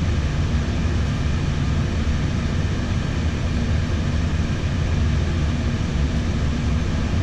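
Steady low hum and air rush inside an Airbus A320 flight deck on the ground, its engines still idling before shutdown.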